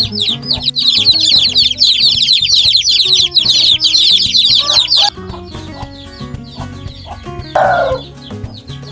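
Chickens calling: a dense chorus of short, high, rapid chirps that cuts off abruptly about five seconds in, then a single louder, lower call near the end, over background music.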